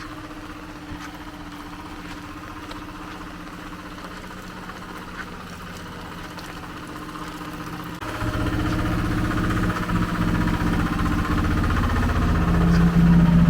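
A motor vehicle's engine running, at first steady in the background, then much louder from about eight seconds in as it comes close, growing louder again near the end.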